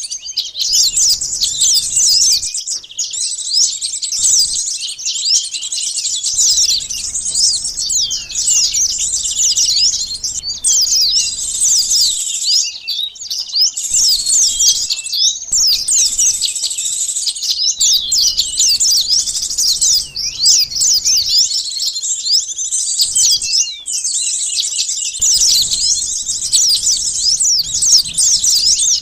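Bird-lure recording of many small birds, sunbirds among them, chirping at once: a dense, noisy chorus of quick high-pitched calls and downward-sweeping notes, overlapping without pause apart from a few brief dips.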